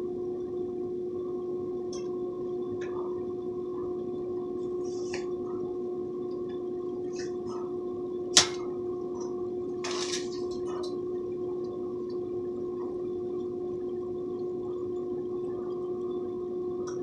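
Rain falling, with scattered drips and ticks over a steady low hum, and one sharp click a little past the middle.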